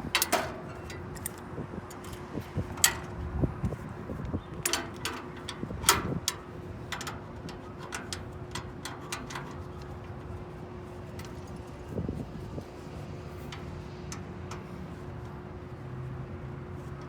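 Sharp metallic clicks and clanks of hands-on work, dense over the first six seconds or so and sparse after, over a steady machine hum.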